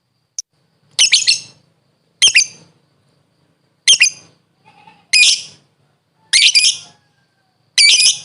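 Lovebird giving six short, harsh, shrill calls, spaced about a second or more apart.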